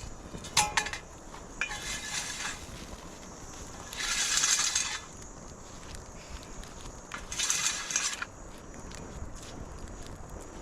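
Metal cooking pot being handled: a short ringing clink under a second in, then three rough scraping noises of about a second each, the middle one loudest.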